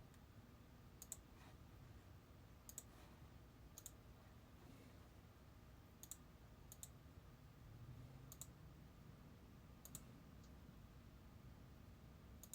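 Near silence: faint room tone with about eight small, sharp clicks at irregular gaps of one to two seconds.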